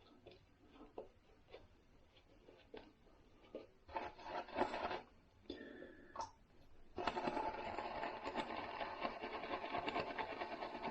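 Stainless steel safety razor scraping through stubble on the skin: a few faint ticks, short strokes about four seconds in, then a steady crackling scrape from about seven seconds on.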